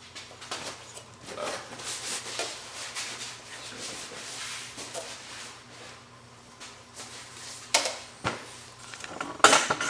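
Head gasket being worked off a Toyota 3S-GE engine block: faint rubbing and scraping of metal with scattered light clicks, then a couple of louder metal clanks near the end.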